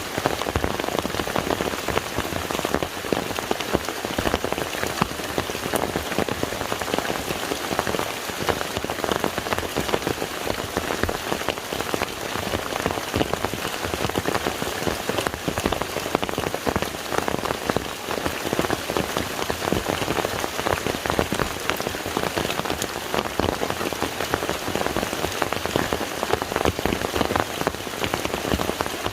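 Steady rain falling on a lake's surface: a dense, even patter of countless close drop strikes.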